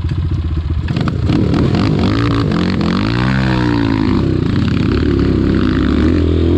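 Off-road motorcycle engine revving up and down several times, its pitch rising and falling over a steady running engine.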